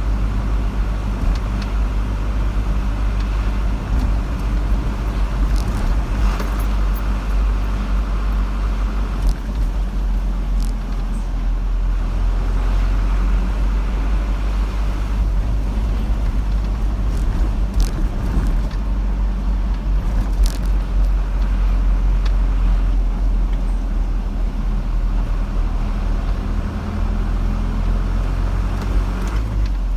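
Car driving along a road: steady low engine and tyre rumble, with a few faint clicks around the middle.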